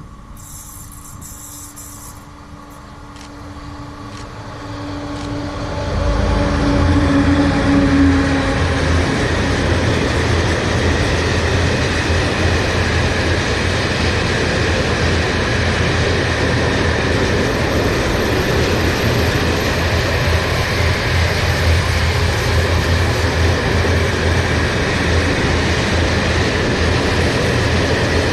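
An electric train approaches with a steady hum, growing louder over the first six seconds, then runs close past with a steady deep rumble and wheel-and-rail noise.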